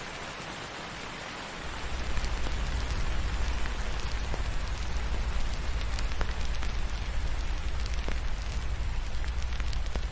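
Steady rain hiss. About one and a half seconds in, a deep low rumble and the scattered pops and crackles of a wood fire come in and carry on under the rain.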